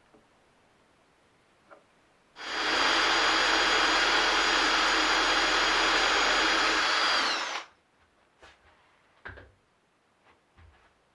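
Electric drill running steadily at full speed for about five seconds, then switched off, its whine dropping as it stops, followed by a few faint knocks.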